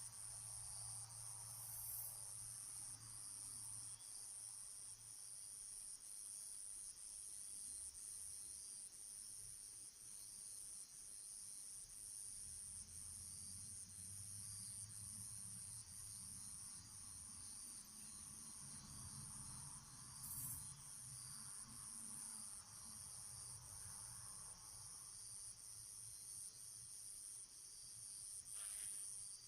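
Crickets chirping in a steady high trill that pulses about once a second, with a faint low hum underneath.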